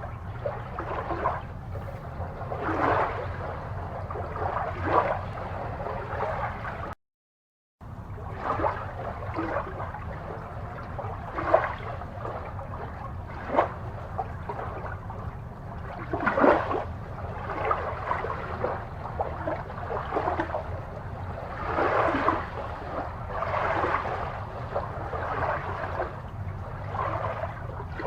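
Aquarium water bubbling and gurgling in irregular bursts over a steady low hum, cut off by a brief dropout to silence about seven seconds in.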